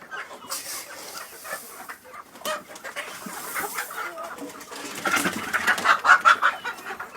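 A flock of domestic chickens clucking, the calls growing busier and louder for the last couple of seconds.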